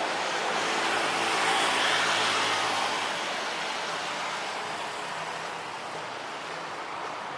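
Jet roar of a Boeing 737's engines as the airliner passes, swelling to its loudest about two seconds in and then slowly fading.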